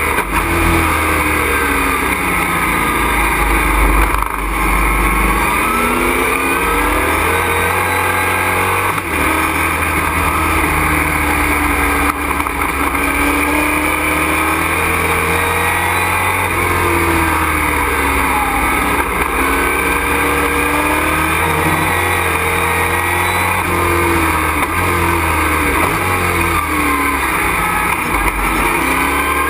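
Super Truck race engine heard from inside the cockpit at racing speed. The revs repeatedly climb and drop through gear changes and corners, over constant wind and road noise.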